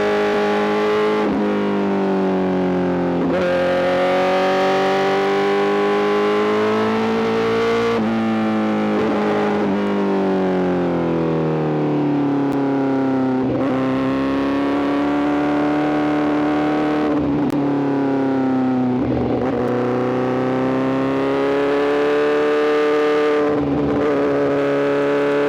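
Honda CBR1000RR-R SP's inline-four engine running through a full Arrow GP exhaust, its note rising and falling in pitch as the bike is ridden, with brief breaks at several gear changes.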